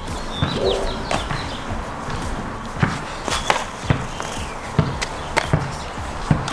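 A series of about ten sharp knocks and thuds at irregular intervals, with short bird chirps near the start.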